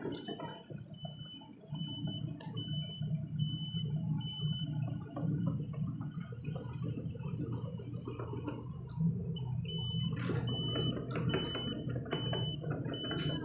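Sumitomo SH75 excavator's diesel engine running steadily under a series of short high electronic beeps, about three every two seconds. The beeps stop about five seconds in and start again near the end, when a few knocks are heard.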